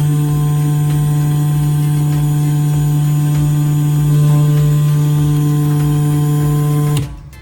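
A 775 DC motor running at a steady speed with an even hum. The hum cuts off sharply about seven seconds in.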